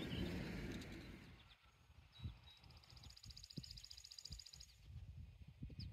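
Faint outdoor ambience with light wind rumbling on the microphone, and a small bird singing a rapid, even trill for about two seconds in the middle.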